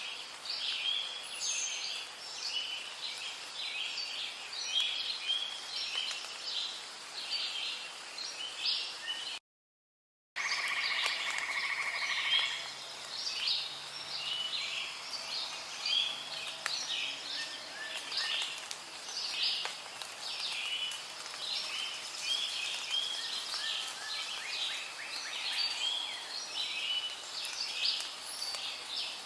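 Rainforest ambience: a dense, continuous chorus of rapid high chirping calls from birds and frogs. The sound drops out to complete silence for about a second roughly ten seconds in, then resumes.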